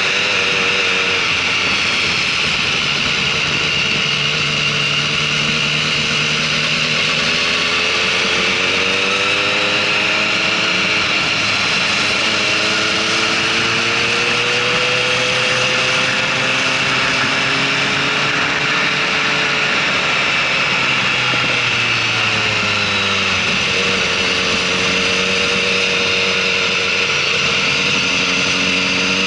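Motorcycle engine running through a track lap, its pitch rising and falling with throttle and gear changes. It drops away about three-quarters of the way through, then climbs again, over a steady hiss.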